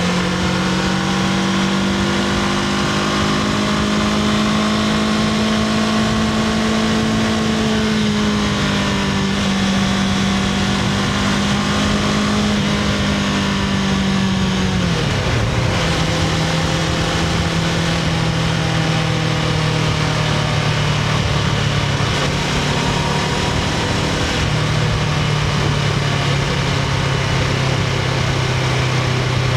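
Honda CBR500R's parallel-twin engine running through its stock exhaust at steady revs. About halfway through, the note falls quickly to a lower pitch and holds there.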